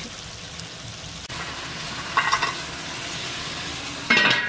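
Meat frying in oil and tomato in an aluminium pot, with a steady sizzle. A short metallic clink a little past halfway and a louder ringing metal clang near the end.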